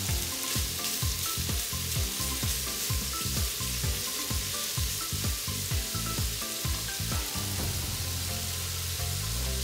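Chicken and andouille sausage sizzling as they brown in an Instant Pot on its sauté setting, with a wooden spoon stirring and scraping through the pot in a steady rhythm that stops about seven seconds in.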